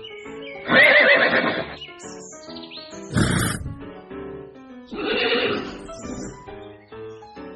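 Horse whinnying over background music: a loud, wavering call about a second in, then further calls near the middle and around five seconds in.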